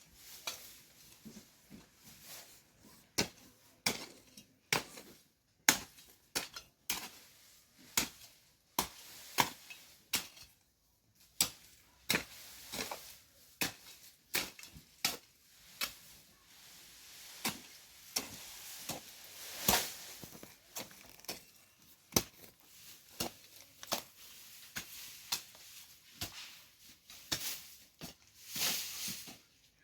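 Hand hoe chopping into soil again and again, about one strike a second, with the scrape of soil being dragged between strokes as earth is heaped around potato plants. There is a short pause about ten seconds in.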